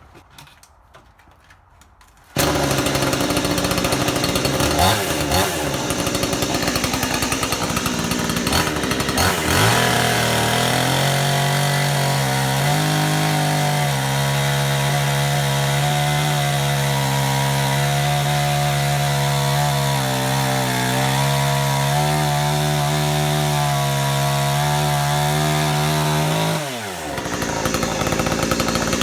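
Petrol chainsaw running at high revs and cutting through a log, starting abruptly about two seconds in; its engine note wavers a little as it works, then drops sharply near the end as the revs fall, leaving a steadier running sound.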